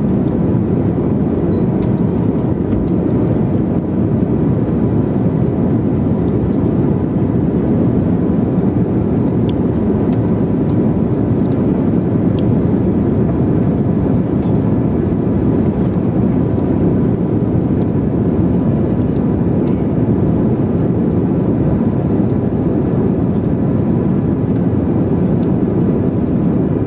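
Steady drone of an airliner cabin in flight, the noise of engines and rushing air, with a faint steady high tone.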